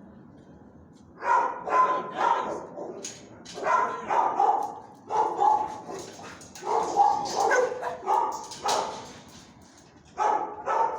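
Dog barking repeatedly in short groups of two or three sharp barks, starting about a second in.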